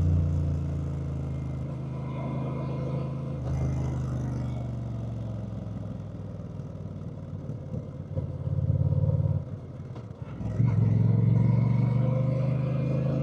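Honda Rebel 1100's parallel-twin engine running under way, its note swelling about eight seconds in, falling off sharply near ten seconds as the throttle closes, then pulling hard again.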